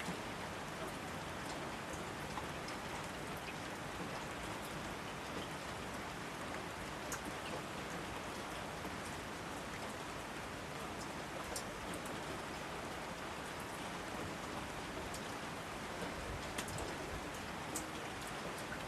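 Steady rainfall, with scattered individual drops ticking on surfaces.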